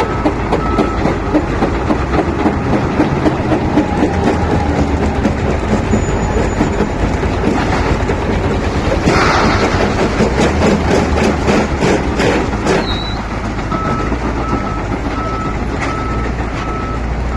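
Wheel loader's diesel engine running under load with a steady rattle. About nine seconds in comes a loud clattering burst of stone being dumped into a dump truck's bed. A reversing alarm beeps at the very start and again from about fourteen seconds in.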